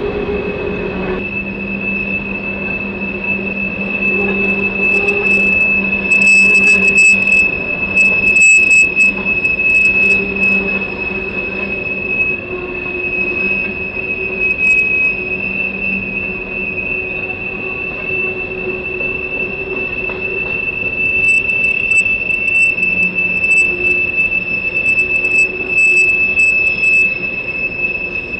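Empty open-top coal hopper cars of a freight train rolling past, their wheels giving a steady, high-pitched squeal, the usual sign of flanges grinding on curved track. Under it runs a rumble, with bursts of sharp clicking from the wheels twice.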